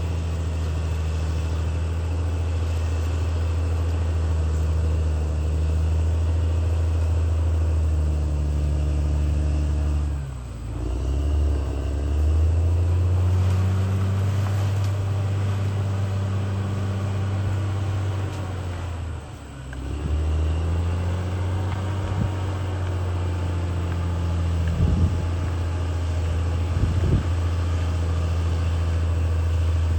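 CAT D6R XL bulldozer's diesel engine running steadily, its pitch and loudness sagging briefly and recovering twice, a third and two thirds of the way through. Two short clanks near the end.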